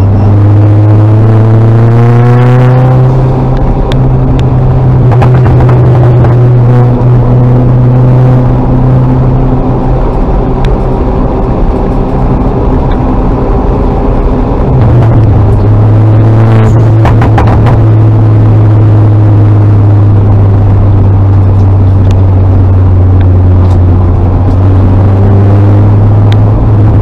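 Mini John Cooper Works Coupe's turbocharged four-cylinder engine heard loud from inside the stripped race cabin, running at a fairly steady speed. Its pitch climbs over the first few seconds and settles again about halfway through.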